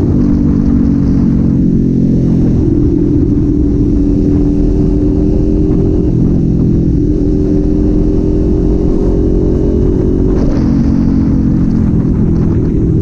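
Kawasaki Z400's parallel-twin engine and exhaust running at steady cruising revs. The engine note shifts in pitch a few times, around three seconds in, around six seconds in and again near the end.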